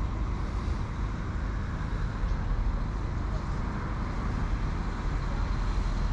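Class 195 diesel multiple unit standing at the platform with its engines running, a steady low rumble.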